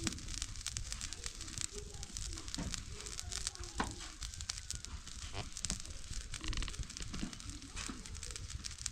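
Pot of soup boiling on the fire, with steady crackling and sizzling made of many small irregular clicks.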